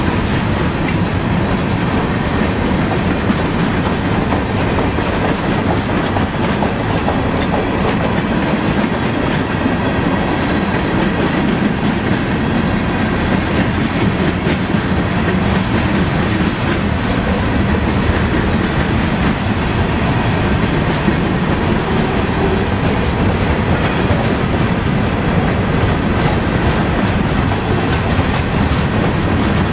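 Freight train of covered hopper cars rolling past close by at speed: a steady rumble and clatter of steel wheels on the rails.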